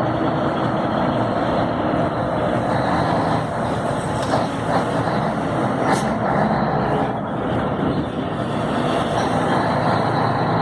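Scania 112 truck's 11-litre six-cylinder diesel engine running steadily under way, with road and wind noise, and a single sharp click about six seconds in.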